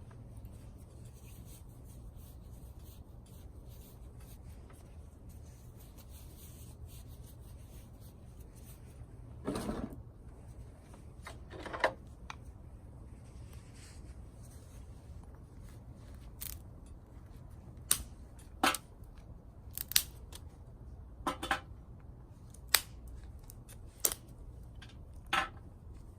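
Dry twigs snapping and cracking, about ten short, sharp cracks at irregular intervals of a second or two, over a low steady rumble.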